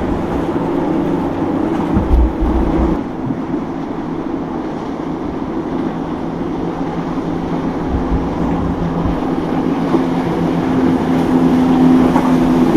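Boat engines running steadily as boats pass through the inlet, with wind buffeting the microphone. The engine hum grows louder over the last few seconds.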